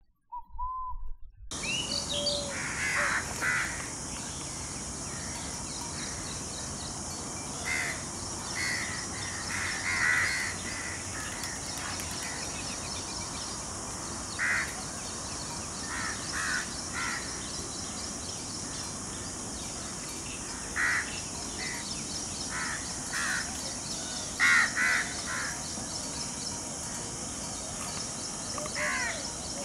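Short bird calls repeated at irregular intervals, sometimes two or three close together, over a steady high-pitched hiss.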